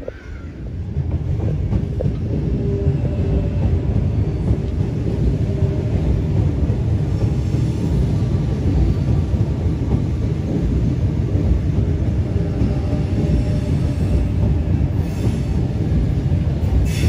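Sydney Trains double-deck electric passenger train running into the station just below, a steady rumble of wheels and running gear that builds over the first second and then holds, with faint tones over it.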